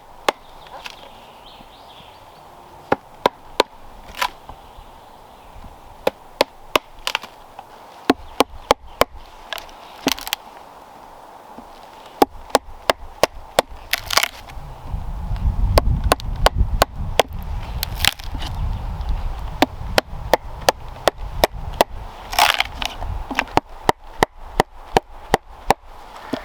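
An edged tool chopping into wood, blow after blow: sharp strikes at an uneven pace, with quicker runs of about three a second near the end, while carving a wooden bucket out of a fallen log. A low rumble rises under the strikes midway.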